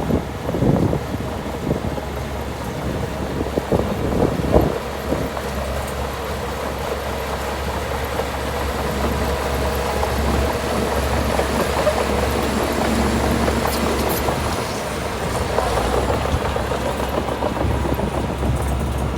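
Heavy diesel engine of earthmoving machinery running steadily, with a few knocks in the first five seconds.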